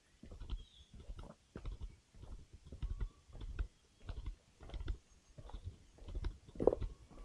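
Footsteps on a forest trail at a steady walking pace, about one and a half steps a second, each a low thud with a light crunch of leaf litter and twigs.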